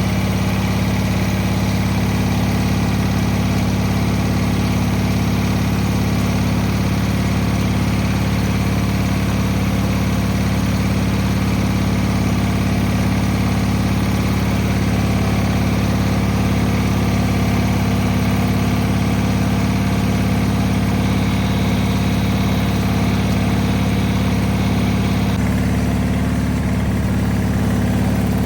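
Cub Cadet 782's single-cylinder Kohler engine running steadily at idle, warming up after a cold start at −6 degrees. Its note shifts slightly about 25 seconds in.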